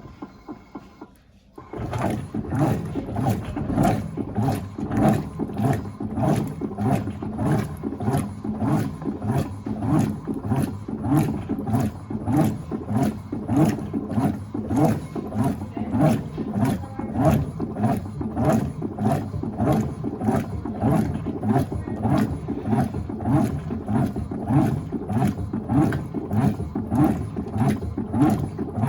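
Electrolux Turbo Acqua Jet (LTA15) top-loading washing machine starting to agitate about two seconds in, after a click. The agitator churns the wash water back and forth in an even rhythm of a little under two strokes a second.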